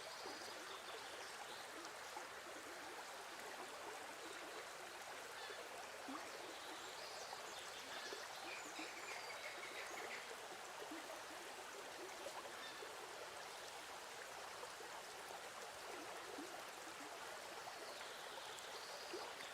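Faint steady hiss with no distinct events: the recording's background noise.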